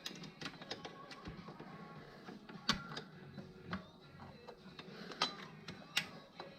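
Irregular metallic clicks and clinks of tools being handled during repair work, with three louder knocks.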